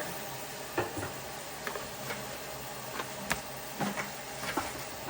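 Indian ringneck parrot bathing: light, irregular splashes and taps in its water dish, about seven of them, over a low steady background.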